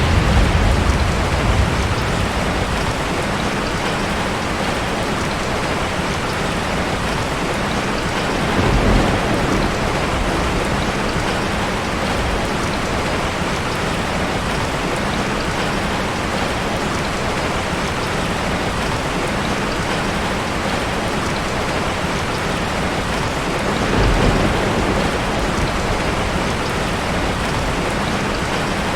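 Steady heavy rain falling. Low rumbles of thunder swell up at the start, about nine seconds in and again about twenty-four seconds in.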